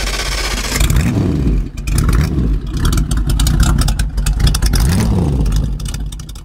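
Motorcycle engine running and revving, the pitch swelling about a second in and again near the end, then cutting off suddenly.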